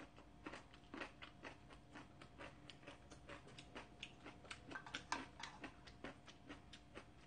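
Close-miked chewing: a string of soft, wet mouth clicks a few times a second, with a louder cluster about five seconds in.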